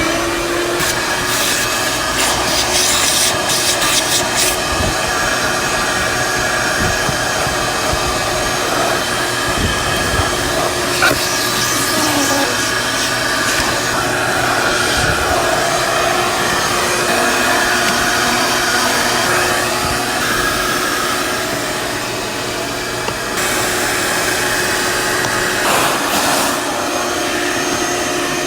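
Vacuum cleaner's motor spinning up at the start and then running steadily, with a few knocks and bumps over it.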